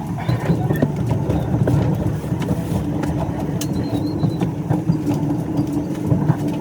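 A moving train: a steady, loud rumble with a constant hum and many small rattles and clicks.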